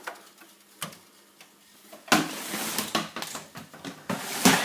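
A few single clicks, then from about two seconds in a louder stretch of rustling and clattering, like things being handled and moved about.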